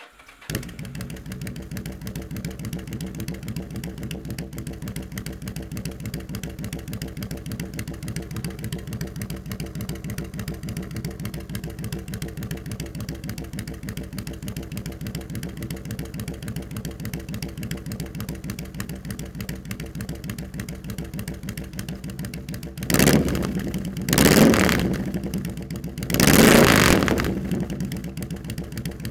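Yamaha V Star 1100's air-cooled V-twin engine idling with an even pulse, then revved three times in quick succession near the end, the last rev held longest before it settles back to idle.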